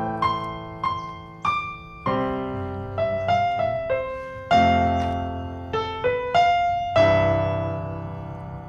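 Background music: a slow piano melody, single notes and chords each struck and left to ring and fade.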